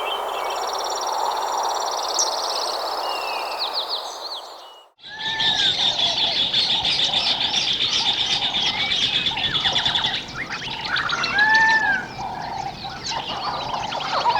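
Wild birds chirping and trilling over a steady rushing hiss. The sound drops out briefly about five seconds in, then a denser bird chorus follows, with fast trills and repeated arching whistled calls.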